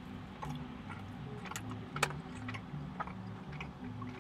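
A person chewing a bite of soft chocolate chip brookie: irregular small crisp clicks and smacks of the mouth, the sharpest about two seconds in.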